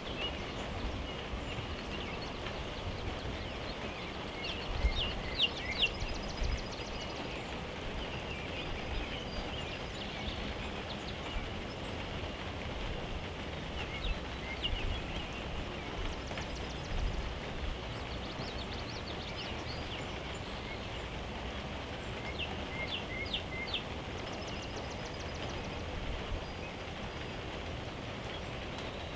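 A songbird singing short phrases of quick high notes, repeated every few seconds over a steady outdoor background hiss, with a few low thumps about five seconds in.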